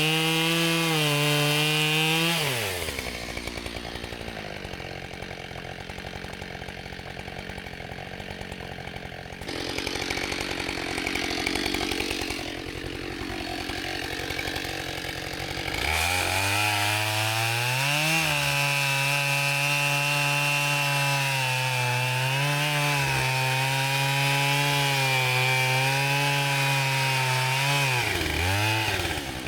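Gas chainsaw felling a dead pine. It runs at high revs, drops to a lower, rougher note for about thirteen seconds, then climbs back to high revs about halfway through and falls off near the end.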